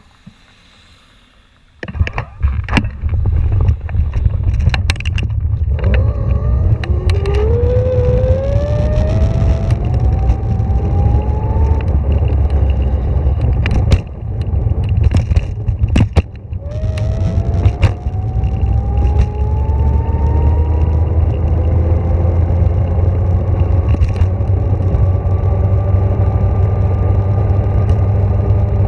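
Electric vehicle motor whining and rising in pitch as it accelerates, twice, over a loud low rumble with scattered knocks and rattles.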